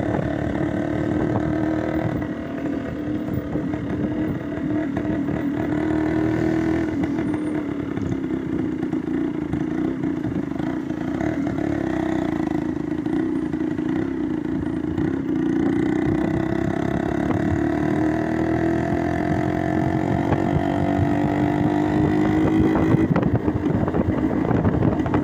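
Motorcycle engine running steadily under way, its pitch sagging and climbing several times and dropping near the end.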